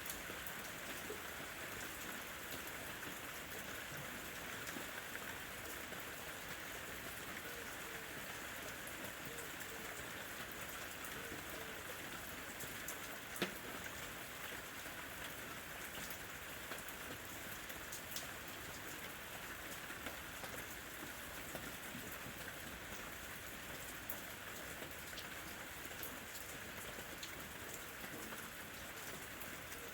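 Steady rain falling, with scattered sharp drop ticks and one louder tap about halfway through.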